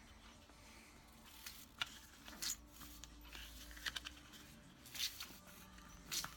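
Faint, scattered clicks and light scrapes, about five over a few seconds, of small metal engine parts such as bolts and aluminium sealing washers being handled and fitted by hand.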